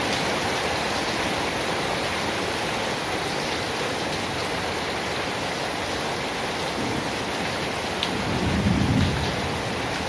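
Steady, even rain hiss. About eight seconds in, a short, low rumble of distant thunder rises and fades over about a second.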